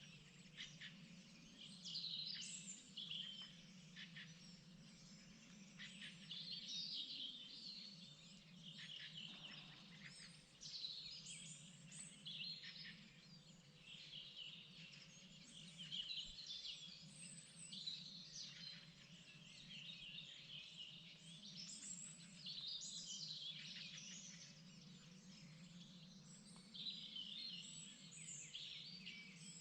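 Spring chorus of several small songbirds, quick chirps and trills overlapping and coming thick and fast all through, over a faint steady low hum.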